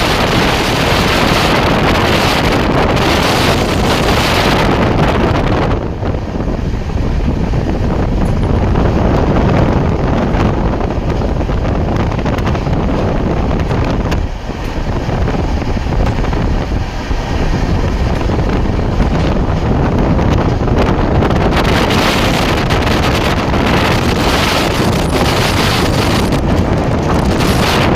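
Moving train heard from aboard, with heavy wind buffeting the microphone over the train's steady running noise.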